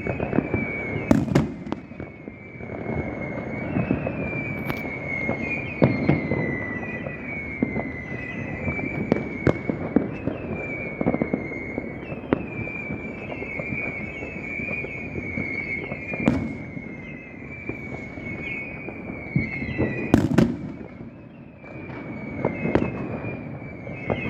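Fireworks going off: sharp bangs every few seconds over a steady crackling rumble. A high falling whistle-like tone repeats about once a second throughout.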